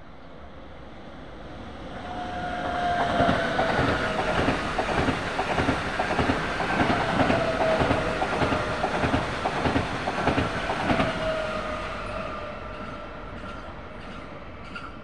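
Two coupled blue-and-white regional multiple-unit trains passing close by, wheels clattering over the rail joints under a steady two-pitched whine that slips slightly lower. The sound swells about two seconds in and fades away after about eleven seconds.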